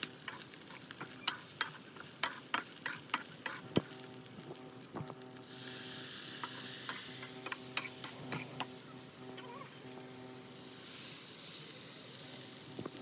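Metal spatula clacking and scraping in a wok of frying chicken pieces. About five seconds in, water poured into the hot oil sets off a sudden loud sizzle that fades, and a second pour near the end sizzles again, more softly.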